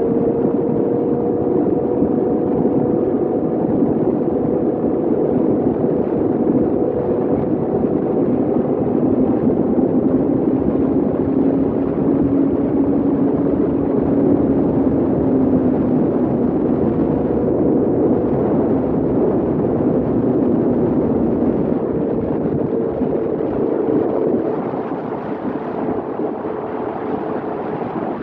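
Kawasaki Z800's inline-four engine through a full-system AR exhaust, held at high, nearly steady revs while riding at speed, with heavy wind rush over the microphone. The sound drops a little for the last few seconds.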